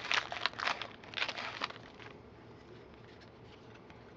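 Trading card pack wrapper crinkling and rustling as the cards are handled, in quick irregular crackles for about the first two seconds, then only faint light ticks.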